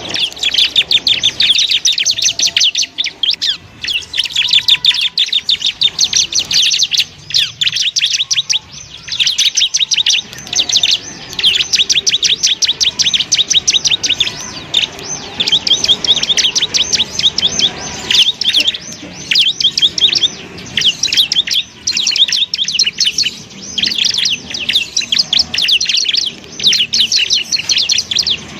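Bar-winged prinia (ciblek) singing: long runs of rapid, evenly repeated high chirps that rattle on for several seconds at a time, broken by short pauses. This is the fast rattling 'ngebren' song.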